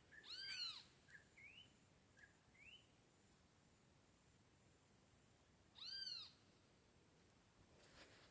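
Faint animal calls: two short mewing calls, each rising and falling in pitch, about five seconds apart, with a few brief rising chirps between them.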